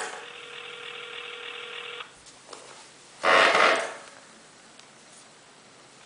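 Telephone ringback tone heard down the line, two seconds of ringing with a four-second gap, meaning the called phone is ringing and not yet answered. A loud, short burst of noise comes about three seconds in, and the next ring begins near the end.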